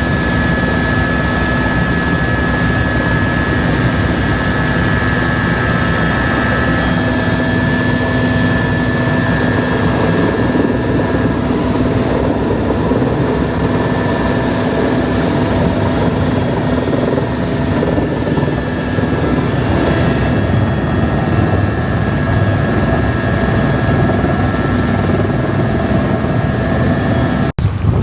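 Helicopter in flight: a loud, steady rotor and engine noise with a few steady whining tones over it, cut off abruptly near the end.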